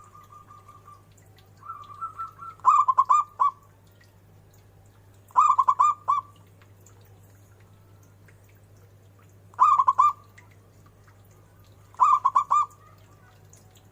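Zebra dove (perkutut) cooing: a softer trill in the first couple of seconds, then four short phrases of quick rolling notes a few seconds apart. A low steady hum runs underneath.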